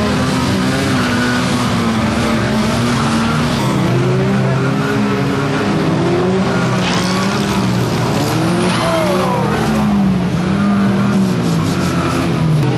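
Several 1600cc banger racing cars racing together, their engines revving up and down over one another.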